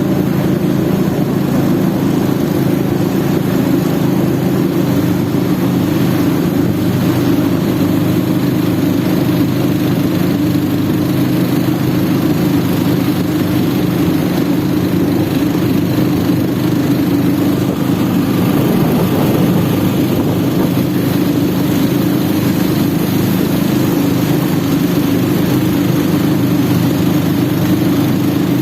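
An engine running steadily at constant speed, with no revving or change in pitch.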